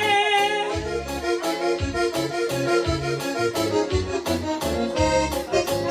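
Live band music: an instrumental passage between sung lines of a Mexican ballad, with an accordion-like melody over bass and a steady beat.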